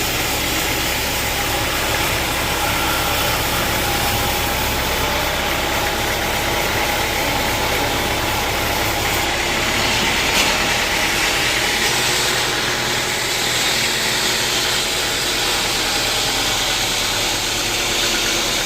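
Sawmill machinery running steadily, an engine-like drone with an even hiss over it and no distinct cutting strokes.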